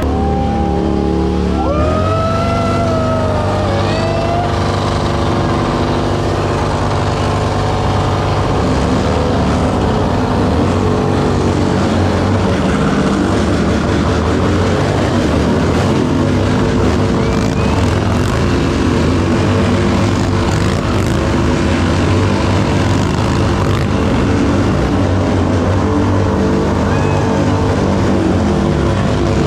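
Motorcycle engines running steadily at low speed.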